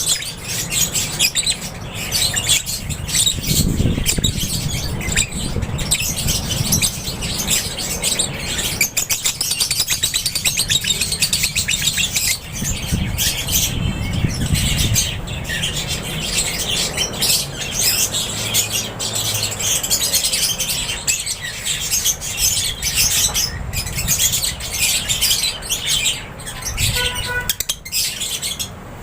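A flock of lovebirds in an aviary chirping and squawking, a dense, unbroken high-pitched chatter of many birds at once.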